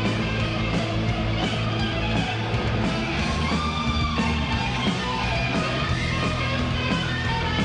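Rock band playing live: guitar over sustained bass notes and a steady drum beat, with a bending guitar line about halfway through.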